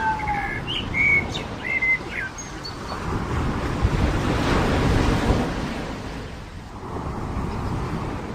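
Surf breaking on a beach: a wave swells up and washes away about midway through. A bird gives a few short whistled chirps in the first two seconds.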